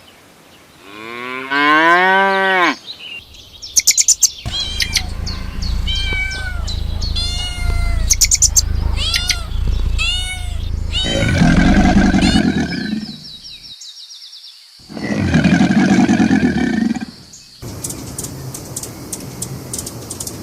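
A string of farm-animal calls: a rising call, then a run of short high calls, then two long loud calls. Near the end comes a fast, even clicking.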